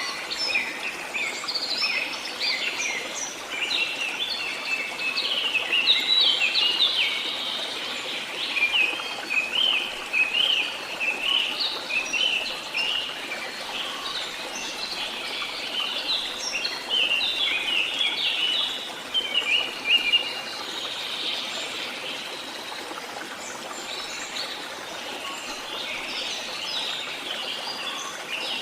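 Several songbirds singing and chirping together, quick rising and falling notes that overlap, over a steady background hiss. The song thins out for a few seconds about two-thirds of the way through.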